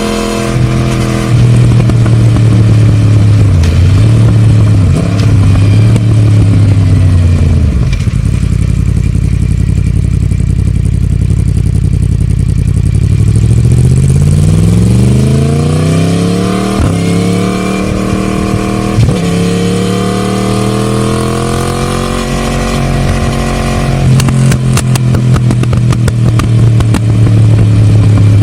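Yamaha MT-10 Gen 2's crossplane inline-four running through a decat pipe and stock silencer: steady under load, then the revs drop and hold low before it accelerates hard, rising in pitch through the gears with brief breaks at the shifts. Near the end a run of sharp crackles sounds over the engine note.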